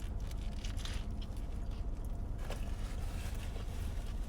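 Steady low rumble inside a parked car, with a few faint soft clicks and rustles.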